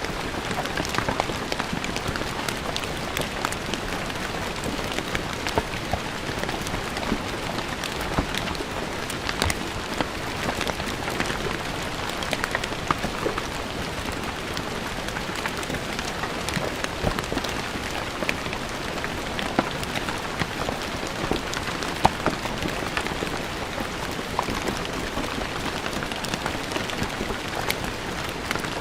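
Steady rain falling on a stone floor, a continuous hiss with many sharp individual drop splashes.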